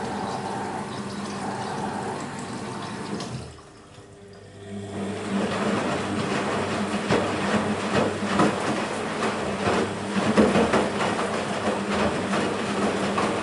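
BEKO WMB 51441 front-loading washing machine mid-cycle. Water runs through the machine with a steady hum and stops about three and a half seconds in. After a brief lull the drum starts turning, and the laundry and water slosh with irregular knocks.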